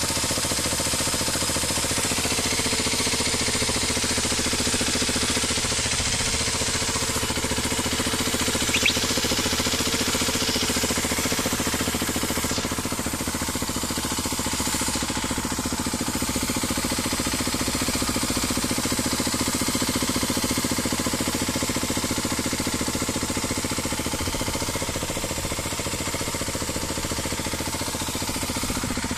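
Small air-cooled motorcycle engine idling steadily, with one brief click about nine seconds in.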